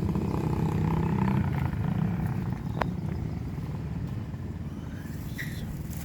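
A motor engine running with a low rumble that slowly fades, and one sharp click about three seconds in.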